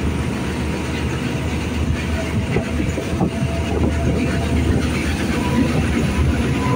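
Thai State Railway suburban passenger train running along the track, heard from an open door: a steady rumble and rattle of the coach's wheels on the rails.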